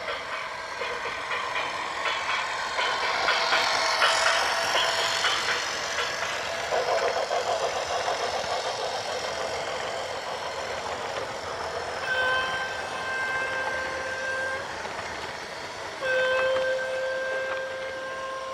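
A horn blowing twice in the second half, each blast steady and about two and a half seconds long, over a background of steady noise.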